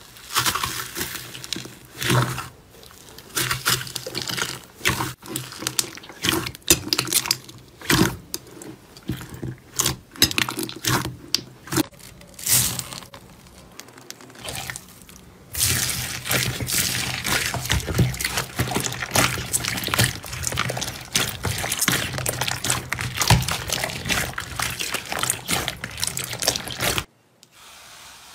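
Slime being squeezed and worked by hand: wet popping and crackling clicks, scattered at first, then a dense continuous crackle from about halfway, which stops suddenly near the end.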